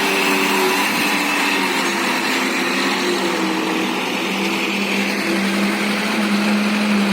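Diesel dump truck engine running steadily under load on a steep climb, its pitch rising a little in the second half.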